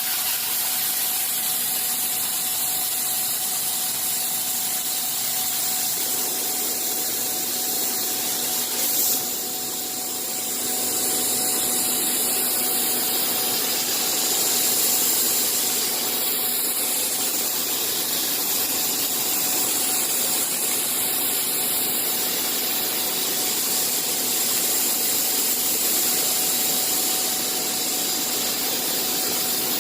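CNC machine running: a steady mechanical noise with a strong high hiss and a steady hum, and a brief knock about nine seconds in.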